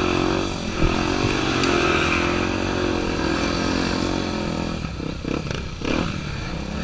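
Honda Tornado 250's single-cylinder four-stroke engine running with the revs rising and falling, then going choppy and uneven about five seconds in.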